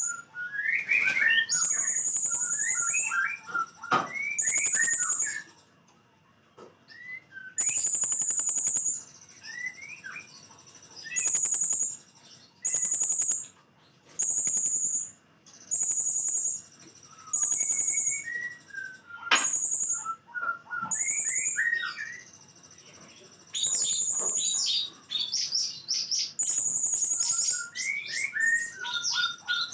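Blue-crowned hanging parrot (srindit) in full song: shrill, high-pitched notes of about a second each, repeated over and over, with quick, lower chirps in between.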